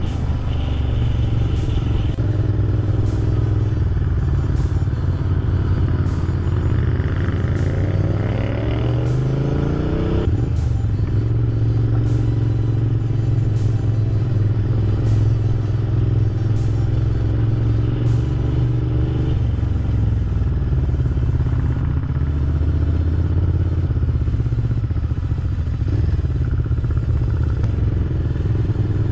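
Honda VTR1000 V-twin motorcycle engine running loudly under way, heard from on board. About eight seconds in the revs climb for a couple of seconds, then fall away sharply.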